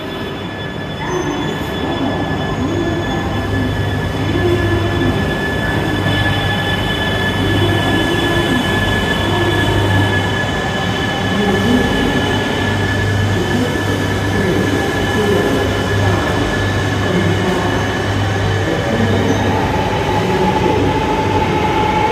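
Shinkansen train running, a steady rumble under a high electric whine of several tones whose pitch drifts slowly, one tone rising near the end.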